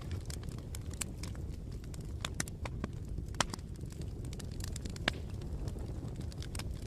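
Campfire burning: a steady low rumble of flames with irregular sharp crackles and pops from the burning wood, two louder pops about three and a half and five seconds in.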